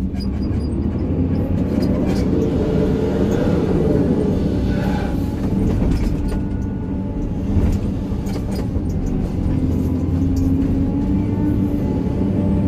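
Excavator's diesel engine running steadily under working load, heard from inside the cab, with scattered short knocks from the machine at work.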